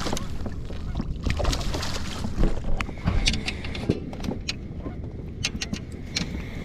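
Irregular knocks and clicks from gear being handled on a fishing kayak, over a steady low wind rumble on the microphone.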